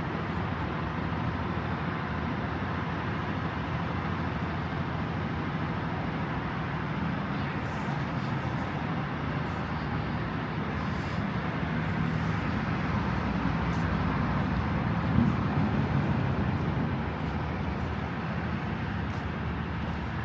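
Steady road traffic noise, cars passing, swelling a little with a louder passing vehicle past the middle, with a brief sharp knock near the loudest point.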